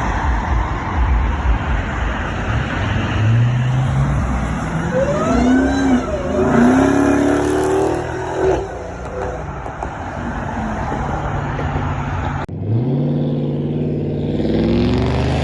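Dodge 6.4-litre Hemi V8 accelerating hard through the gears. The exhaust note climbs in pitch again and again. About twelve seconds in there is a sudden cut to another pull with the same rising engine note.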